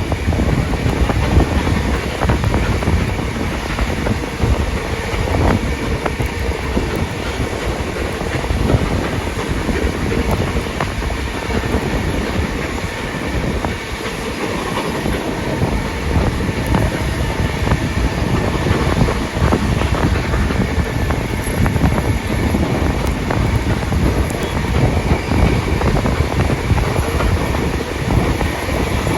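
Passenger train hauled by steam locomotive 3526 running along the line, heard from on board: a steady noise of wheels on the track with some wind, dipping briefly about halfway through.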